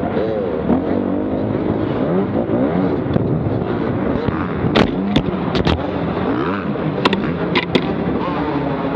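Dirt bike engine revving up and down as the bike is ridden, its pitch rising and falling. Several short sharp clicks or knocks come over it in the second half.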